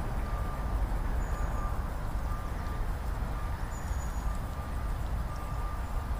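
Steady low rumble of outdoor background noise with no distinct events, and a faint thin tone that comes and goes.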